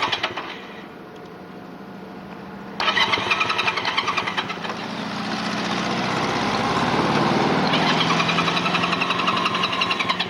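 Motorcycle engine running. A louder, pulsing engine sound comes in suddenly about three seconds in and swells over the next several seconds.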